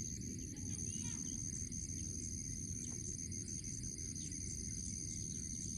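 Insects trilling steadily at a high pitch over a low rumble, with a couple of faint bird chirps about a second in.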